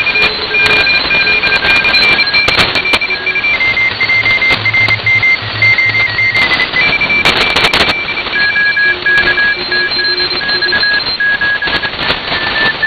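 Several Morse code signals at different pitches keying on and off at the same time over the steady hiss of a shortwave receiver, with crackles of static throughout.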